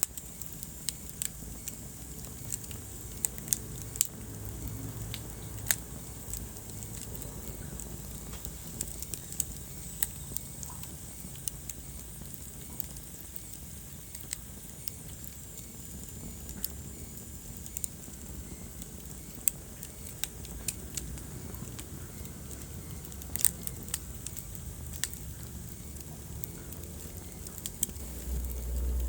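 Wood fire crackling in a fireplace: irregular sharp pops and snaps over a steady low hiss of the burning logs, with a low rumble swelling near the end.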